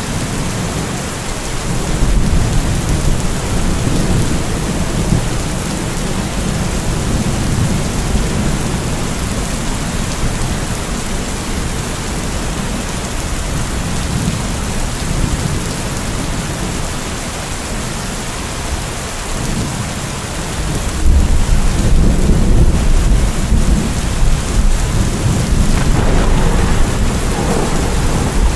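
Steady heavy rain with rumbling thunder of a thunderstorm; the thunder swells louder about two-thirds of the way through.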